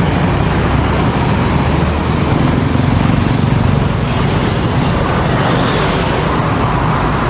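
Steady street traffic noise of passing motor vehicles, with a run of about six short high beeps, a little over half a second apart, starting about two seconds in.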